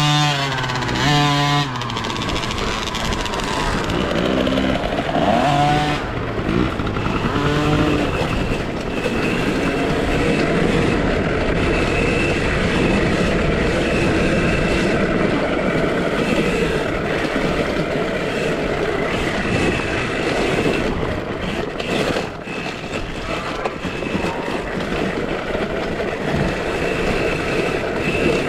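2023 KTM SX-E5 electric youth motocross bike ridden on a dirt track. In the first several seconds its whine steps and glides up and down in pitch with the throttle, then settles into a steady rush of wind and tyre noise with a faint high whine over it.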